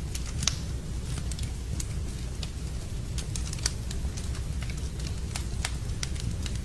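Fireplace fire crackling: scattered sharp pops and snaps over a steady low rumble, with two louder pops about half a second in and a little past three and a half seconds.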